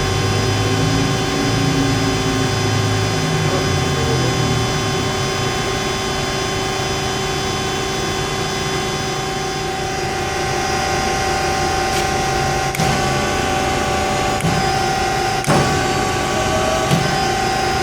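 HEM VT125HA-1 vertical tilt-frame band saw running: a steady mechanical hum and whine made of several fixed tones, with a shifting low rumble in the first few seconds. Several sharp clicks and knocks come in the second half.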